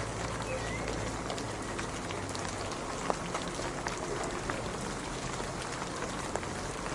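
Steady rain falling: an even hiss with many separate drop ticks through it, one a little louder about three seconds in.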